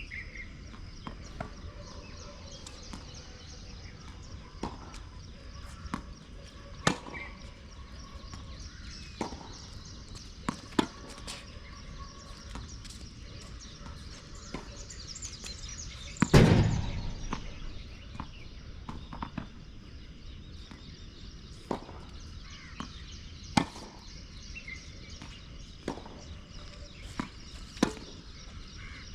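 Tennis balls being struck by rackets: scattered sharp pops every second or few, over a steady background hiss. About halfway through there is one much louder, deeper thump with a short tail.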